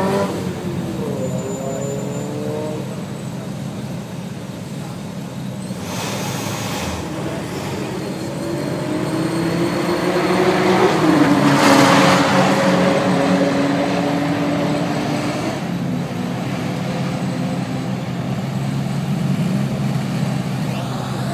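Performance cars accelerating hard down a race track, their engine notes rising and dropping as they shift gears, over the steady rumble of other engines idling. The loudest stretch is about halfway through.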